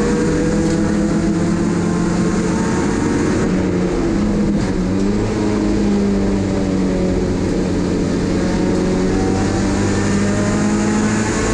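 Toyota 4A-GZE supercharged four-cylinder engine of an AE101 Corolla Levin race car running hard at speed, holding a steady pitch. About four seconds in the pitch briefly dips and shifts before settling steady again.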